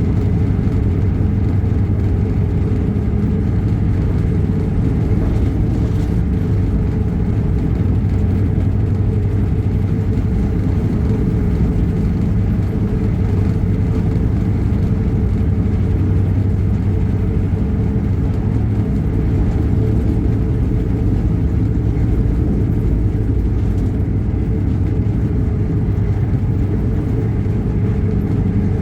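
A vehicle running steadily under way, with a constant low engine hum and running noise and no change in pace.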